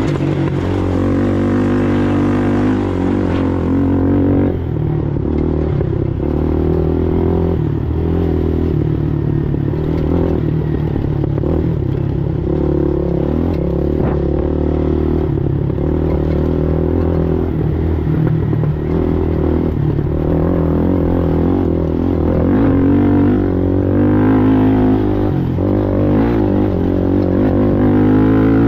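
Racing ATV engine running hard for the whole stretch, its pitch rising and falling with the throttle, with occasional knocks from the machine.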